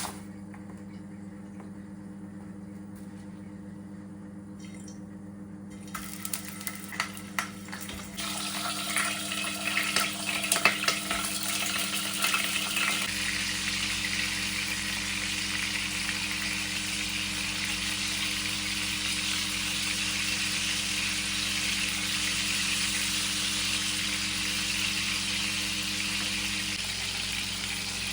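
A few clicks and some clatter, then from about eight seconds in a steady, even sizzle of food frying in a hot pan, over a steady low hum.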